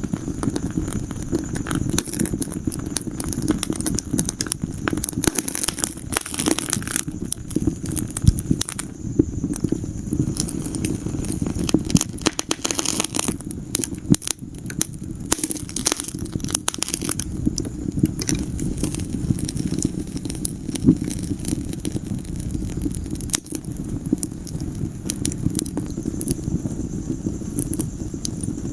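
Wood fire in a fireplace crackling: dense, irregular snaps and pops over a steady low rush from the burning logs, with busier bursts of crackling around a quarter and half-way in.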